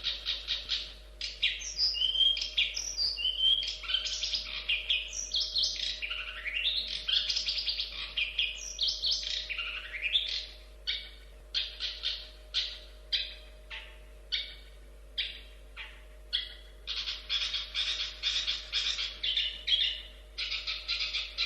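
Long-tailed shrike (cendet) singing: a fast run of scratchy repeated notes, then varied whistled and gliding phrases. About halfway through come separate harsh notes about twice a second, and near the end another fast chattering run.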